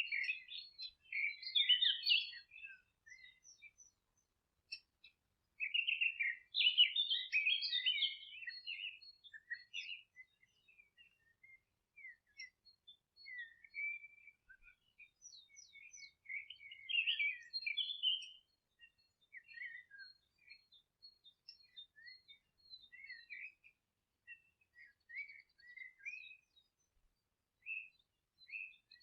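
Songbirds twittering and singing: quick, jumbled high notes in bursts, the fullest at the start, around six to ten seconds in and around sixteen to eighteen seconds in, with scattered single chirps between.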